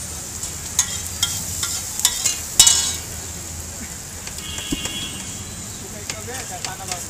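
Chopped onion and tomato sizzling steadily on a large flat iron tawa. Sharp metal clinks and scrapes of utensils come in a cluster from about one to two and a half seconds in, the loudest a brief ringing clank, with a few lighter clicks later.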